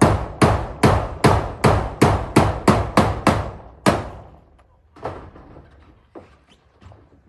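Hammer driving nails with quick, even strikes, about three a second, for about a dozen blows. The blows stop about four seconds in, and a few fainter knocks follow.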